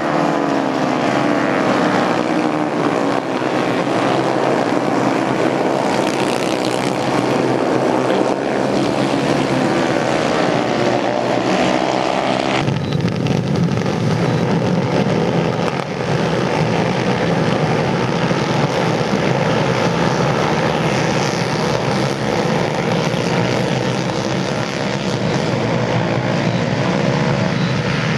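Racing motorcycle engines running hard, several bikes passing with their pitch sweeping down and up. About thirteen seconds in, the sound changes abruptly to a steadier, lower engine drone.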